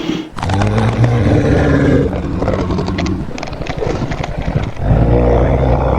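Dinosaur roar sound effects: a long rasping roar, then after a quieter stretch a second loud roar about five seconds in.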